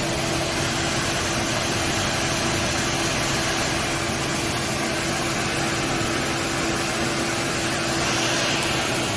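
Car engine idling steadily: a constant low hum with an even hiss over it.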